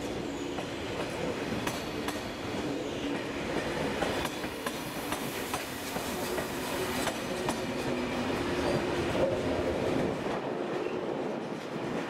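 A TGV Duplex double-deck high-speed train rolls past close by, its wheels clicking over the rail joints, with a steady rumble and a faint humming tone. The sound thins out near the end as the train pulls away.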